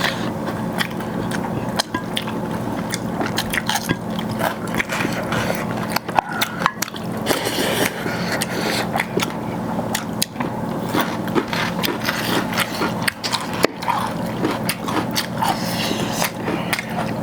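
A person chewing food close to the microphone, with many small wet clicks and smacks.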